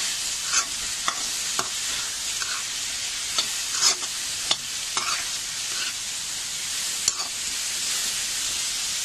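Freshly added chopped mushrooms frying with onion, tomato and spices in a kadhai, making a steady sizzle. A steel spoon stirs them, scraping and clacking against the pan at irregular moments, loudest about four seconds in.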